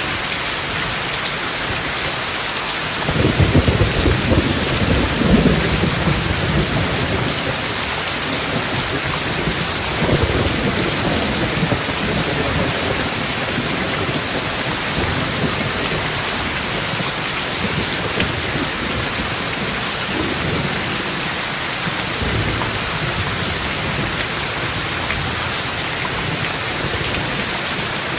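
Steady heavy rain hissing, with a rolling rumble of thunder from about three seconds in that swells twice and fades by about seven seconds, and fainter rumbles again near ten seconds and around twenty.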